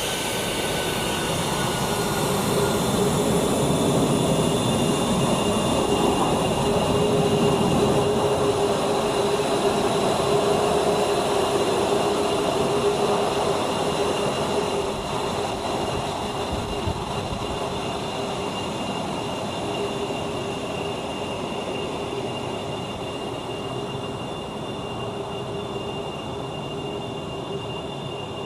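Jet engines of an F-22 Raptor whining at low power, with several steady high-pitched tones over a rushing noise. It grows louder over the first several seconds and then slowly fades, as an aircraft taxiing past would.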